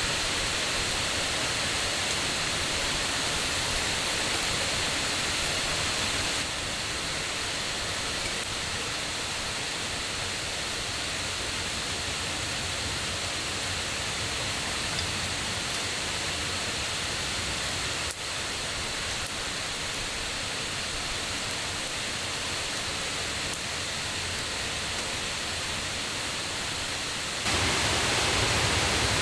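Rushing water of a forest stream and waterfall, swollen by the previous day's rain: a steady, loud wash of noise. Its level shifts abruptly a few times, dropping about 6 and 18 seconds in and rising again near the end.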